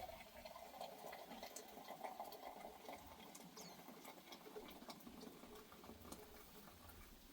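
Near silence, with faint scattered light scratches and ticks.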